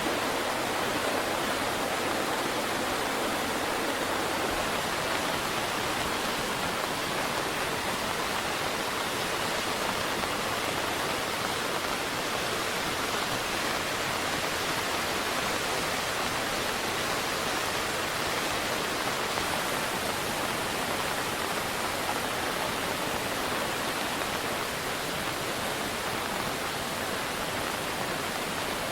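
Steady rush of fast-flowing, swollen river water, an even noise with no breaks.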